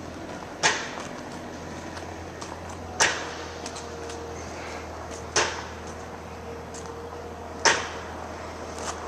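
Sharp knocks, four of them, evenly spaced about every two and a half seconds, over a steady low hum.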